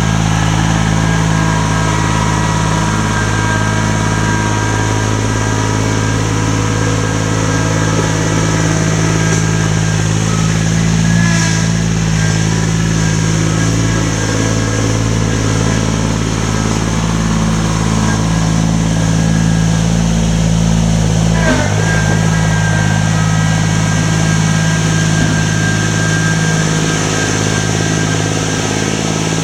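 An engine running steadily at a constant speed, a loud even hum with a brief dip about three quarters of the way through.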